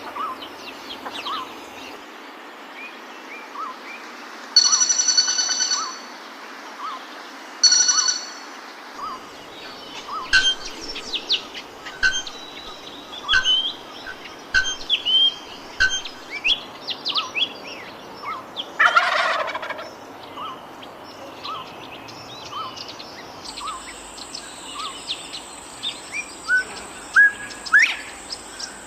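Wild birds calling: a string of short, clear chirps repeated about once a second, mixed with quick upward-sweeping notes and two louder buzzy calls early on. A brief rustling burst comes just before the two-thirds mark, and a steady high tone sounds through the last few seconds.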